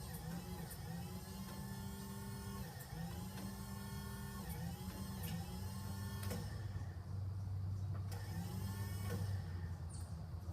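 Electric motor whining in short runs about once a second, each run rising in pitch, then settling after about six seconds into a steadier low hum.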